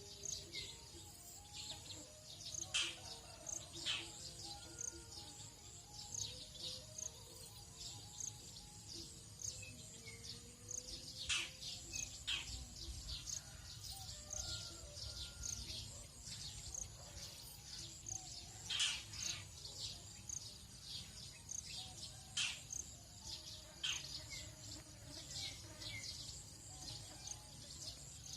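Tropical dawn chorus of birds: a continuous scatter of short high chirps, with a few louder sharp calls standing out, over a steady high drone of insects.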